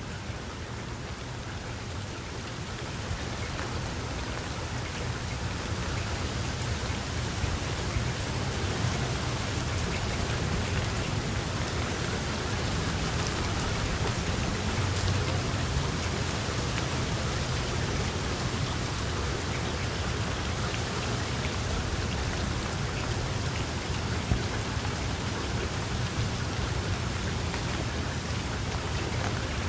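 Steady rain falling and pattering on surfaces, with a low rumble underneath, growing slightly louder over the first several seconds.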